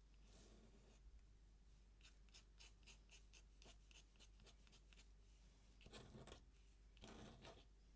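Faint scratching of a dip pen's metal nib on paper as ink lines are drawn: a run of quick short strokes, then two longer strokes near the end.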